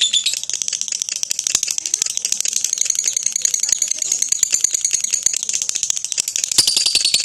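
Adult lovebird singing a long, continuous trill: a fast, unbroken run of high-pitched chirps, the kind of extended song ('ngekek') that is played as a master recording to train other lovebirds.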